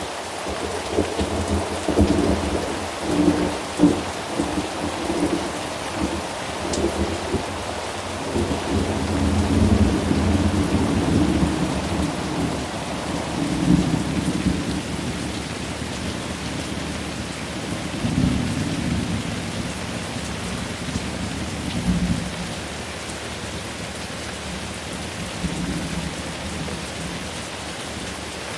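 Thunderstorm: steady rain with rolling thunder, several sharp cracks and rumbles in the first half, with fewer, weaker rumbles near the end as the rain hiss carries on.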